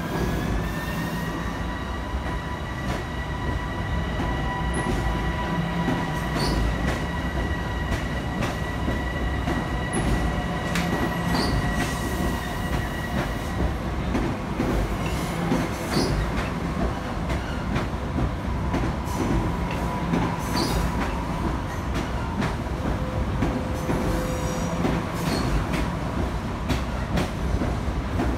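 Long Island Rail Road Bombardier M7 electric multiple-unit train rolling along the platform track: a steady rumble with a rapid run of wheel clicks over the rail joints. High motor whines rise in pitch at the start, then hold steady until about halfway through.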